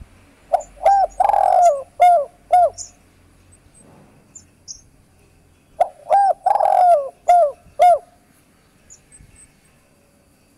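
Spotted dove cooing: two phrases of about five coos each, with a longer note in the middle, about five seconds apart. Faint high chirps in the background.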